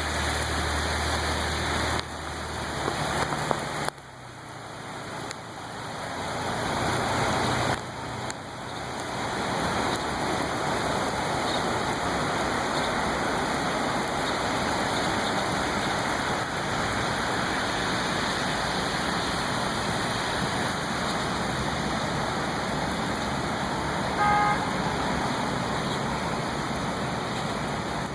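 Heavy rain pouring down, a steady rushing hiss, over floodwater. A low engine hum runs under it for the first few seconds, and a brief beep sounds near the end.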